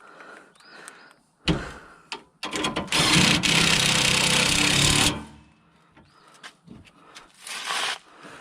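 A power tool runs in one burst of about two and a half seconds, starting about three seconds in, with a fast rattling beat under it. Short knocks and clicks come before and after, with a sharp knock shortly before the run and a brief hiss near the end.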